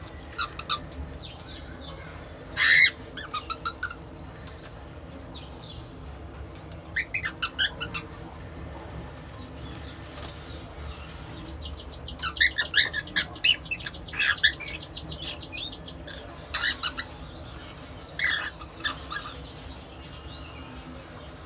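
Young albino cockatiel singing in short bursts of quick chirpy notes, with pauses between phrases; the loudest burst comes near three seconds in.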